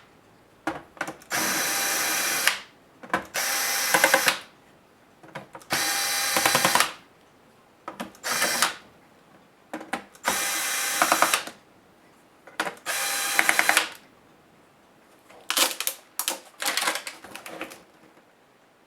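Cordless electric screwdriver backing out laptop case screws: short motor runs of about a second each, a couple of seconds apart, with small clicks between them. The last few runs, near the end, are shorter and choppier.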